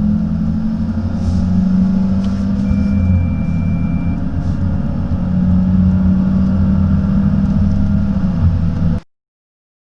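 A car's petrol engine pulling under hard acceleration in a 0-100 km/h run, a steady low drone with engine tones that slowly rise. A thin high tone sounds for about a second and a half about three seconds in, and the whole sound cuts off suddenly near the end.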